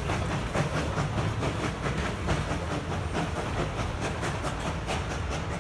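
Narrow-gauge steam train rolling away over a wooden trestle: the passenger cars' wheels click steadily over the rails above a low rumble, slowly fading.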